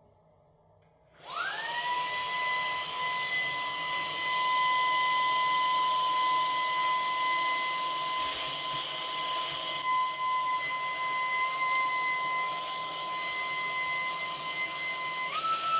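A small high-speed electric motor with a fan spins up about a second in with a rising whine. It then runs steadily, a high whine over a rush of air. Near the end its pitch steps up to a higher speed.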